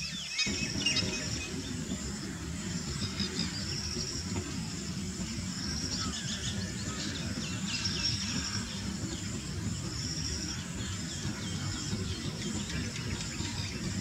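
Birds calling: repeated high trills lasting about a second each and short chirps, over a steady low rumble.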